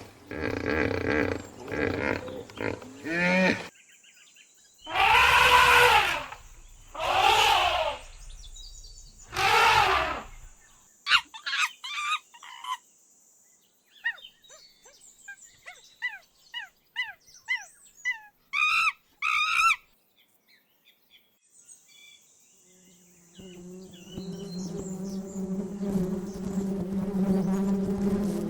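A run of different animal sounds: three loud drawn-out calls, each about a second long, then a scatter of short chirps and clicks. From about two-thirds of the way in, a steady buzz, like that of a flying insect, begins.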